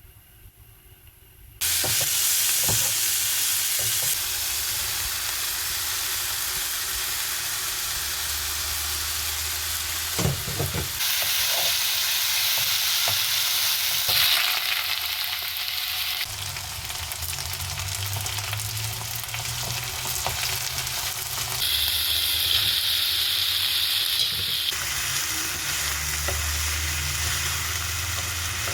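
Food sizzling as it fries in a pan, with stirring and a few utensil knocks; the sizzle starts suddenly a couple of seconds in and its hiss shifts in pitch several times.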